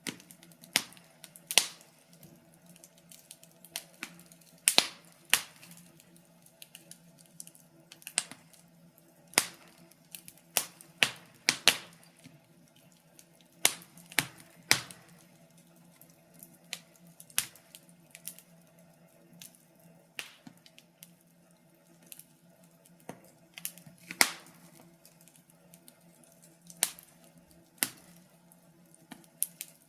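Wood fire crackling: irregular sharp pops and snaps at uneven intervals, a few of them much louder than the rest, over a faint steady hum.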